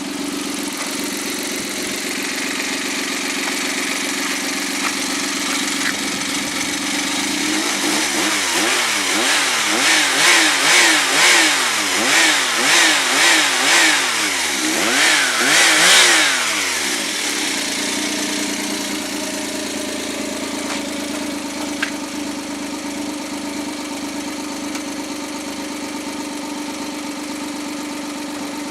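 Rebuilt Suzuki K6A 660 cc three-cylinder turbo engine idling steadily, then blipped up and down about eight times in quick succession before settling back to idle, as it is run in after an overhaul.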